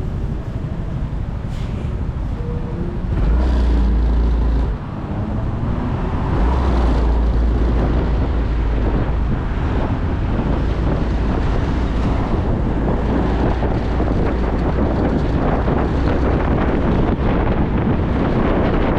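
Motorcycle riding with wind buffeting the microphone: the engine's low hum comes first, then a heavy wind rumble from about three seconds in. The rumble eases briefly near five seconds, then comes back with steady wind and road noise for the rest.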